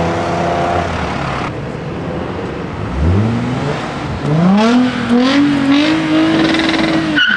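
Car engines revving. A steady engine note fades in the first second. About three seconds in, an engine revs up sharply. From about four seconds, a car engine climbs in a series of short rising revs, and it cuts off suddenly just before the end.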